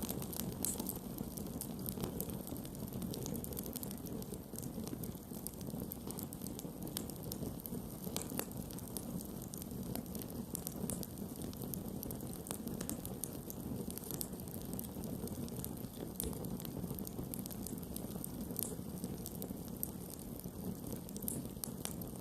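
Wood campfire burning: a steady low rush of flame with frequent, irregular sharp crackles and pops throughout.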